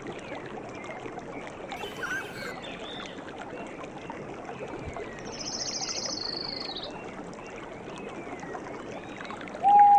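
Nature soundscape of steadily running water with small birds chirping throughout. About halfway through a rapid high trill sounds for about a second and a half, and right at the end a single loud, short whistled call rises and falls.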